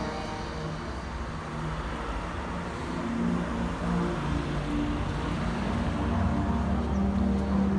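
Slow background music with held notes, over the steady low running of a Mercedes-Benz W124 E220's engine.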